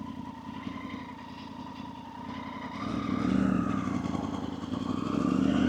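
Motorcycle engine running at a steady cruise, then pulling harder from about halfway through, growing louder and rising in pitch as the bike accelerates.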